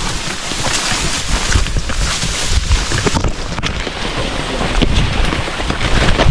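Wind buffeting the microphone in uneven low gusts, over a steady rushing hiss.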